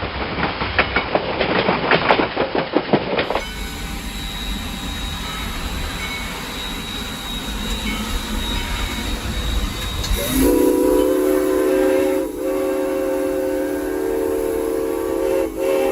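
Three-truck superheated Shay steam locomotive heard from the cab: a rapid clatter for the first few seconds, then steady running noise, and about ten seconds in the steam whistle blows a long blast that dips twice briefly.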